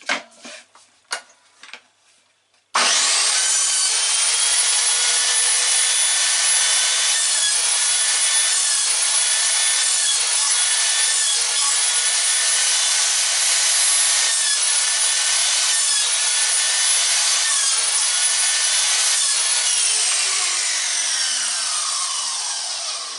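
Silverline 1400 W mitre saw starting suddenly and running at a steady high whine, briefly dipping several times as the blade cuts bits off a piece of wood. Near the end it is switched off and the whine falls in pitch as the blade spins down.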